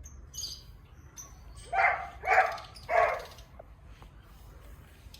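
Three short calls from a pet animal in quick succession, about half a second apart.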